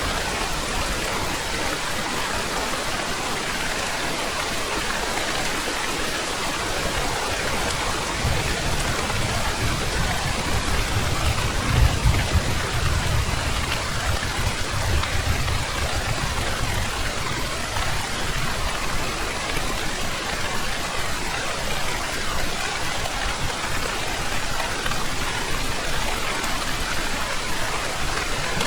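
Heavy rain falling steadily as an even hiss. A low rumble of thunder swells up about a third of the way in, is loudest a little later, and dies away before the middle.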